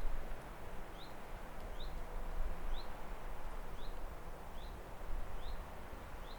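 A bird repeating a short, high, rising chirp about once a second, over a steady outdoor background hiss and low rumble.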